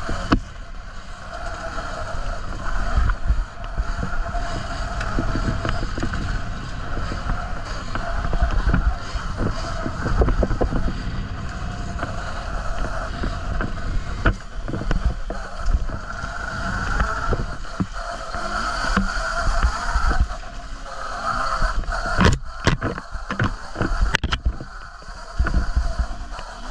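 Off-road bike being ridden over rough trail, heard from a camera on the ride: wind buffeting the microphone and a steady rumble of knocks from the ground, with a motor tone that wavers as the throttle changes. The sound drops back briefly a few times near the end.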